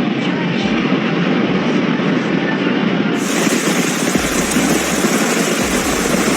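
Steady, loud rushing of water: rain and running floodwater. About three seconds in, a cut to a different recording brings a brighter, hissier version of the same kind of rushing noise.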